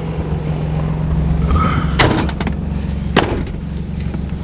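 Nissan 300ZX's naturally aspirated V6 idling steadily, with two sharp slams about a second apart as the car doors are shut.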